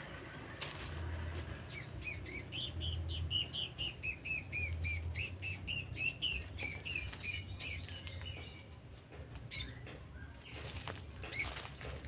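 A small bird just caught in the tree flapping its wings and giving a quick run of sharp chirps, about four to five a second, for several seconds, with leaves and twigs rustling as it struggles.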